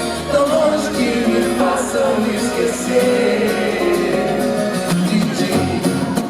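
Live band music with a singing voice and guitar, sustained chords under a wordless, wavering vocal line.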